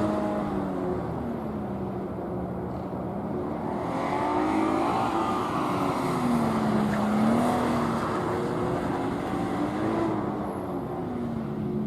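A car's engine on a gymkhana course, revving up and dropping back repeatedly as the car accelerates and slows between turns.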